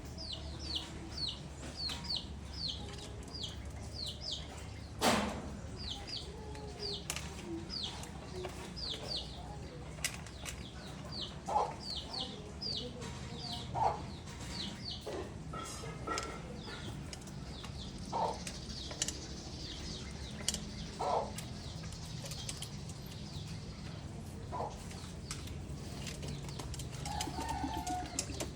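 Pigeons in a loft at feeding time: wings flapping and short calls, over a steady low hum. A high, falling chirp repeats about twice a second through the first half.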